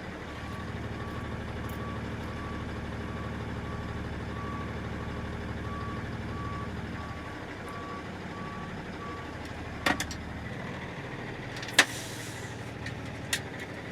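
Box truck's reversing alarm beeping about one and a half times a second over the running truck engine as it backs into the dock, the beeping stopping about nine seconds in. A few sharp knocks follow near the end.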